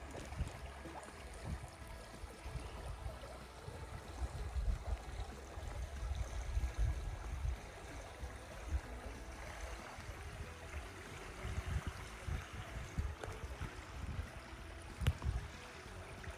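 River water gurgling and trickling around a kayak, with low rumbling gusts on the microphone and one sharp knock near the end.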